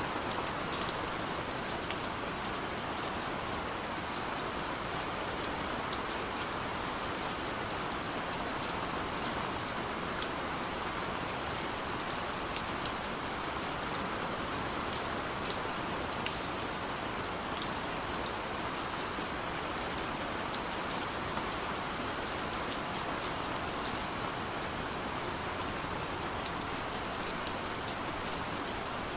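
Steady gentle rain falling, an even hiss with scattered individual drops ticking.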